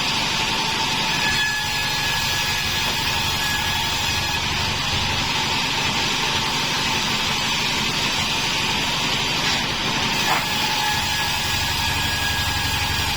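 Homemade band sawmill running steadily, its motor and blade giving a constant mechanical drone with a thin steady whine over it.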